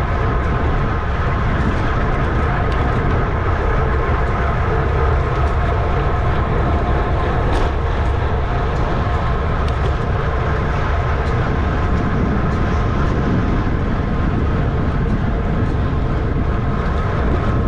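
Steady rushing wind noise on a bike-mounted camera at racing speed, with the continuous whir of the road bike's tyres and drivetrain underneath.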